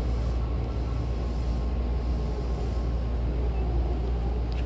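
Steady low rumble and running noise of a Hankyu Takarazuka Line electric train, heard from inside the passenger car by the closed doors as the train moves along the track.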